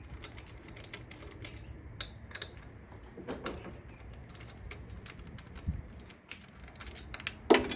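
Light clicks and taps of a hand tool working an 8 mm ignition coil bolt loose, then a sharp metallic clatter near the end as the bolt drops down into the engine bay.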